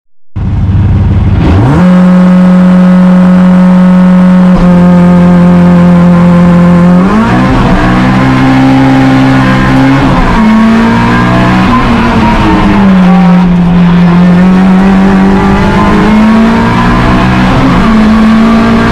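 Peugeot 106 S16's 1.6-litre 16-valve four-cylinder rally engine heard from inside the cockpit of the race car. It fades in, holds steady revs for about five seconds, then from about seven seconds in the revs climb and drop back repeatedly as the car accelerates hard through the gears.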